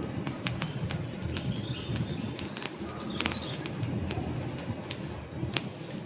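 Wood campfire burning: a steady low rumble of flames with frequent irregular crackles and sharp pops from the logs.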